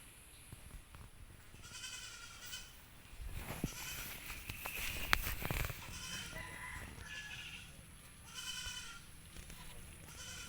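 An animal bleating in short calls, about six spread through the stretch. Rustling and a few sharp knocks in the middle are louder than the calls.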